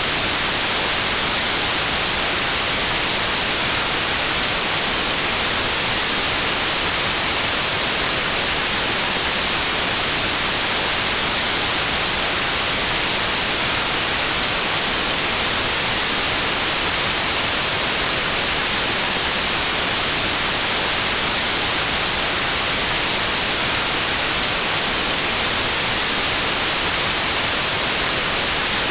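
Steady white noise: an even, unchanging hiss, brighter in the high end, with no rhythm or events.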